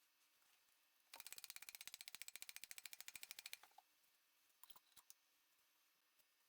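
Faint, rapid mechanical clicking, about ten clicks a second for two and a half seconds, then a few single clicks, from hand work on machine parts.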